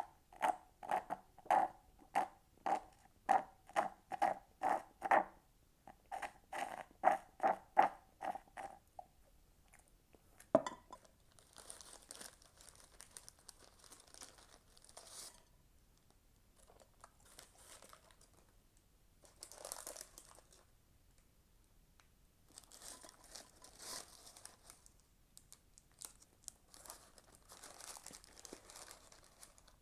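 Close-miked chewing of fast food, an even rhythm of about two chews a second with a short break, stopping about nine seconds in. A sharp click follows, then several separate spells of soft, hissy, crackly noise.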